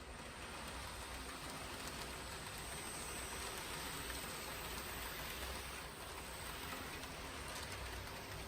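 KATO N-gauge 883 series Sonic model train running on track: a steady rolling rattle of metal wheels on rail with the motor's hum.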